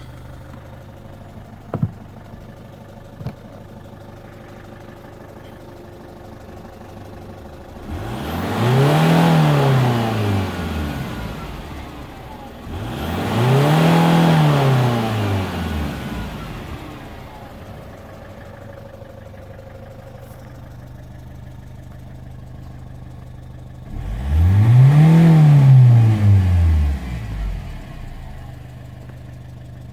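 Citroën C5 2.0 HDi diesel engine idling and revved three times, each rev rising and falling back to idle over about three seconds. It runs loud with a ticking that the owner cannot place and suspects comes from around the injectors.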